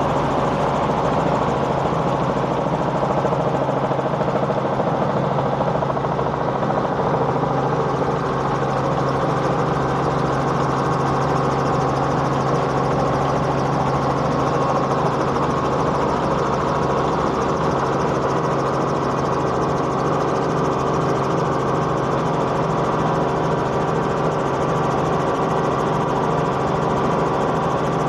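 Helicopter in cruising flight, heard from inside the cabin: a steady engine and rotor drone with a constant low hum.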